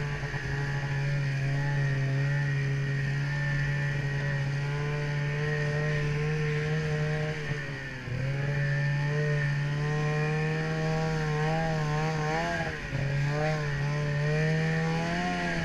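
Ski-Doo snowmobile engine running at steady throttle with a constant drone, easing off briefly about halfway through and again a few seconds later before picking back up.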